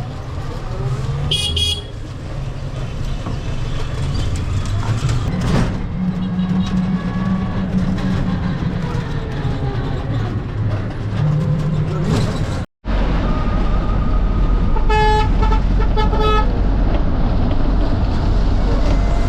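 Road traffic: vehicle engines running, with a short horn honk about a second and a half in. After a sudden cut partway through, steadier, louder engine noise follows, with a run of horn honks near the end.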